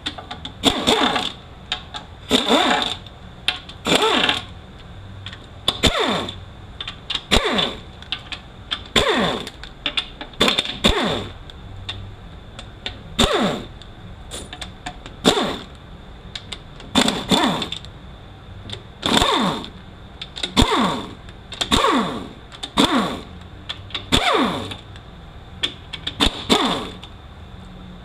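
A power ratchet run in short repeated bursts, about one every second and a half, each burst falling in pitch, as it spins out the 10 mm bolts of an automatic transmission's oil pan.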